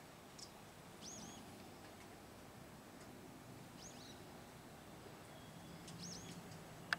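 Faint chirps of a small bird: short, high, arching calls every second or two, some in quick pairs, over a quiet outdoor background. A single sharp click near the end.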